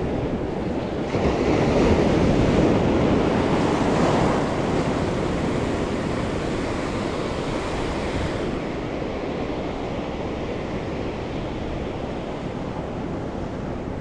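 Ocean surf breaking on the beach: a wave crashes about a second in and its wash slowly fades over the following seconds.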